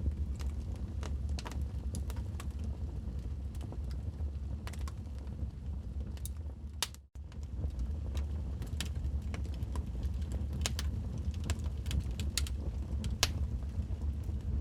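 Wood fire crackling: irregular sharp pops and snaps over a steady low rumble. About halfway through, the sound briefly fades out to nothing and comes straight back.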